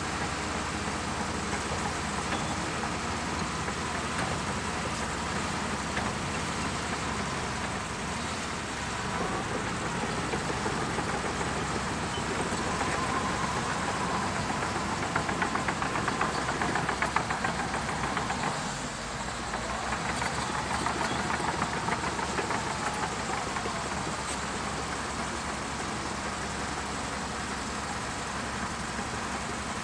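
Shantui DH17C2 bulldozer's diesel engine running steadily. It works harder for a few seconds past the middle, with fast rattling, then eases off.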